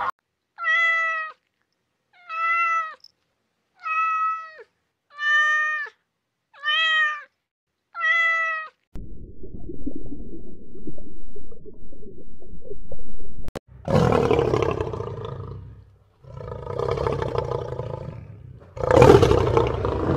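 Six short meow-like animal calls, evenly spaced about a second and a half apart, each dropping in pitch at its end. Then a few seconds of low, steady underwater rumble. Then a lion roaring in three long, rough calls, the last the loudest.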